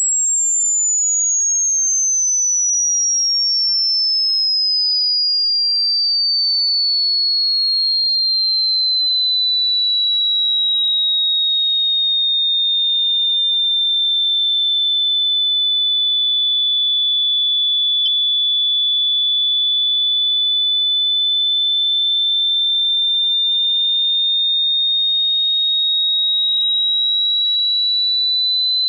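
A single high-pitched pure electronic tone, an annoying ringing sound, gliding slowly downward in pitch for about fifteen seconds and then creeping slightly back up.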